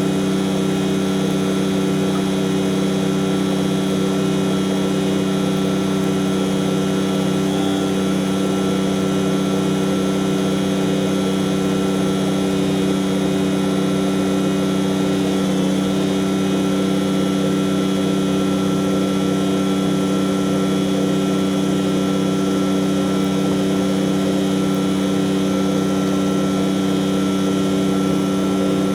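Heavy truck's diesel engine running at a steady speed, an even droning hum that holds without change.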